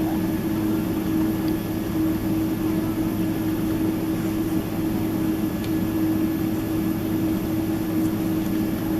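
Steady drone inside the cabin of a Boeing 767-300ER on the ground after landing, a constant hum with an even rush of air and engine noise.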